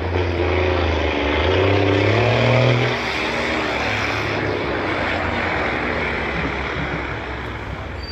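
Car engine pulling hard, its pitch climbing for about three seconds before it cuts back. After that comes a steady rush of engine and exhaust noise that slowly fades.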